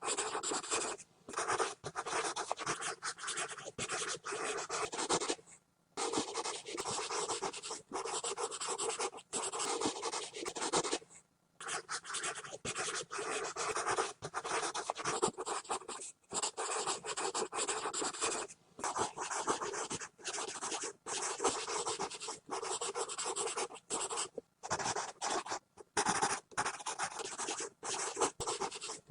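Pencil scribbling fast on paper: continuous scratchy strokes in quick succession, broken now and then by brief pauses where the lead lifts off the page.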